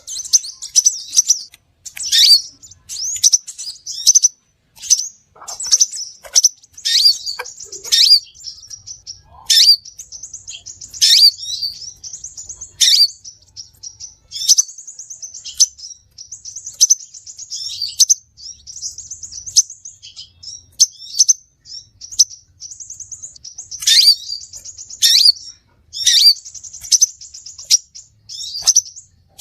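Crimson sunbird (sepah raja) calling: rapid, high-pitched chirps and twittering trills in bursts every second or so, with sharp down-sweeping notes mixed in.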